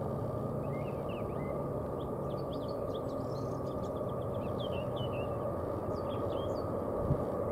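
GE diesel locomotives of an approaching freight train running with a steady low rumble, while small birds chirp over it.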